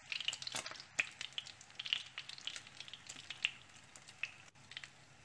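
Egg-coated sticky rice patties (khao jee) frying in shallow oil in a pan: a steady sizzle full of sharp crackling pops, which thin out over the last second or so.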